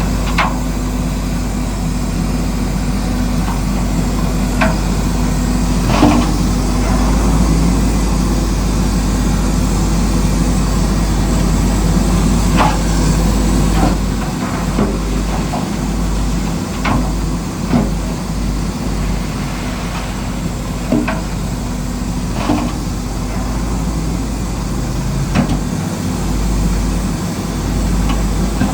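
Earthmoving machine's engine running steadily, with scattered sharp knocks at irregular intervals.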